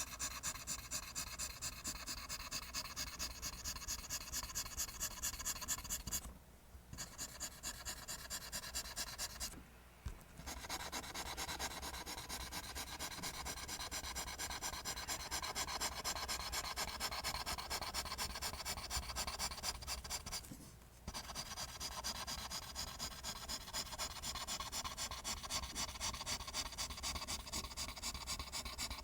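Pencil scratching across paper in a quick, even rhythm of back-and-forth line strokes, stopping briefly three times.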